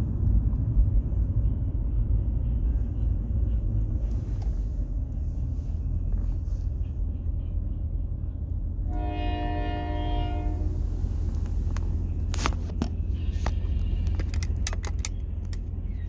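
Train running with a steady low rumble; its horn sounds once for about two seconds, roughly nine seconds in. Sharp clicks follow in the last few seconds.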